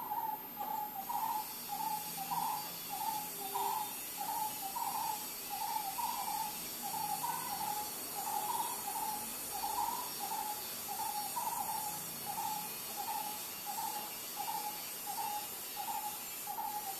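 A bird calling one short note over and over at a steady pitch, about three calls every two seconds, without pause.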